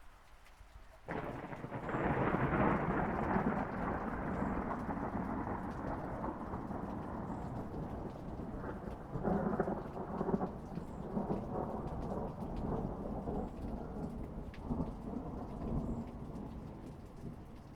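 A long peal of thunder that breaks suddenly about a second in and rumbles on, swelling again in the middle and near the end before fading, over steady rain.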